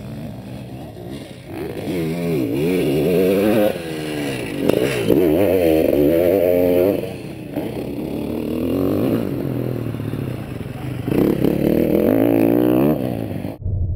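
Honda CR500 single-cylinder two-stroke motocross engine revving hard and backing off again and again, its pitch swinging up and down in four surges as the bike rides around the track. The sound cuts off suddenly near the end.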